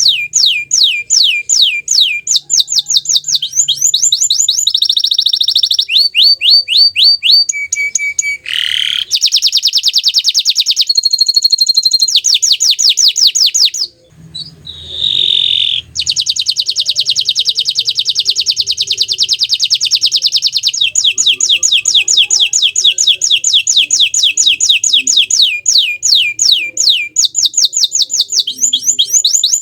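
Bottle-green domestic canary singing a long song of fast, repeated high notes and rolling trills, switching to a new phrase every few seconds, with a short break about halfway through.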